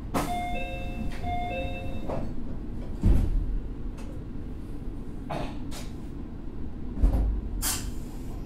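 Meitetsu 6000 series electric train heard from on board, its low rumble steady throughout. A high-then-low two-note chime sounds twice at the start. Two heavy thuds follow about three and seven seconds in, with short hisses between them.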